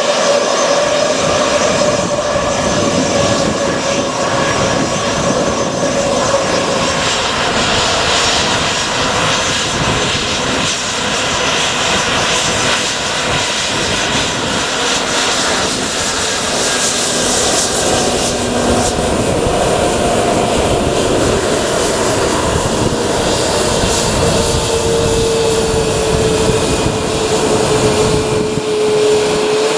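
Jet airliner's engines running at high power during a departure: a loud, steady rush with whining tones over it, one whine sliding slowly lower near the end.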